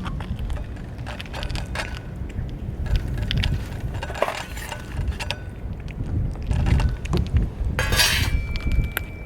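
Scattered light clinks and clicks over a low rumble, with a short rattling rush about eight seconds in.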